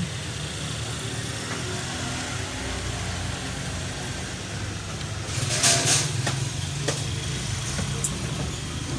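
A steady low engine rumble runs throughout, with a few short sharp clicks and taps about five and a half to six seconds in and again near seven and eight seconds.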